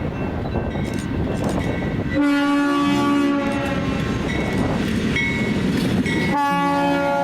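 Diesel freight locomotive horn sounding: one blast about two seconds in and another near the end, with the heavy rumble of the passing train in between.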